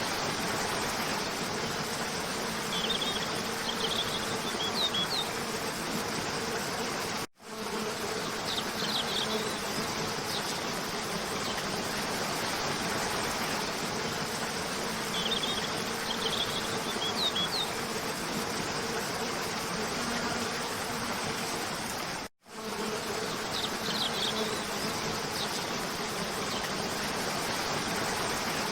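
Waterfall rushing steadily, with small bird chirps in short clusters over it. The sound cuts out for a moment twice, and the chirp pattern repeats every fifteen seconds or so.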